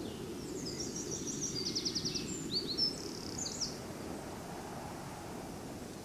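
A songbird sings one short, varied phrase with a fast trill in the middle, over a steady low background rumble.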